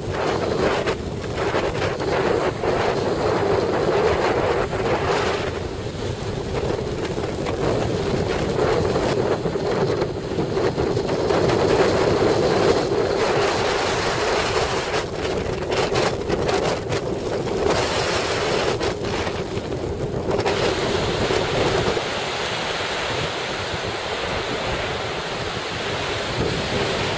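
Strong offshore wind buffeting the microphone, with ocean surf breaking underneath.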